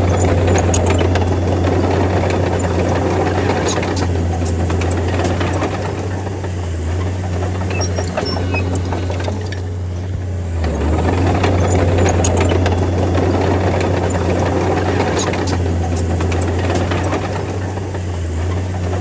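Crawler bulldozer's diesel engine running steadily, with metallic clanking and rattling from the tracks and blade. The noise swells twice, at the start and again about ten seconds in, as the machine works.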